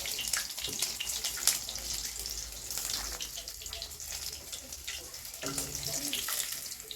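Water running from a tap into a sink, with short clicks and knocks throughout.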